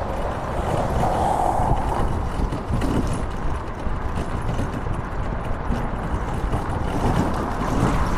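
Steady wind buffeting the microphone over a low rumble of travel noise while moving along a road.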